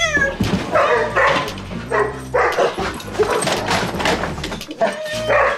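A dog barking repeatedly, a run of sharp barks about one or two a second.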